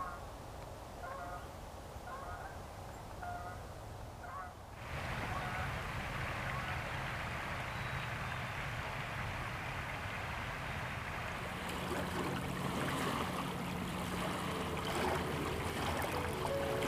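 Waterfowl calling in short repeated honks for the first few seconds, then a steady rush of flowing water.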